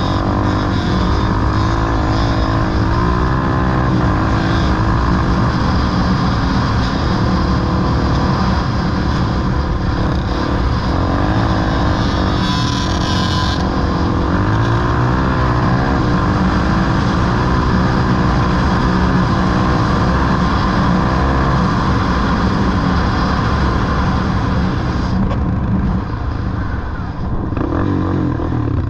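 Off-road vehicle engine running hard, its pitch rising and falling again and again as it revs up and shifts, with a brief hiss about halfway through.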